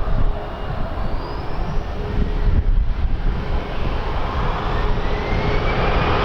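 Airliner engines at an airport, growing a little louder toward the end, with thin whines rising in pitch, under heavy wind rumble on the microphone.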